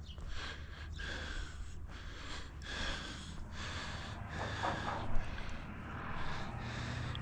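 Rustling, scraping handling noise, with scattered small clicks, as the insulation blanket is wrapped around the side of the pressure washer's burner.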